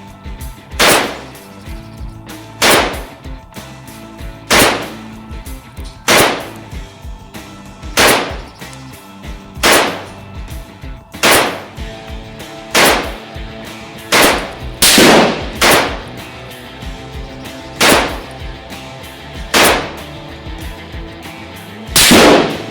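Thompson M1928 submachine gun firing single .45 ACP shots, one about every one and a half to two seconds, with three in quicker succession around the middle, over background music.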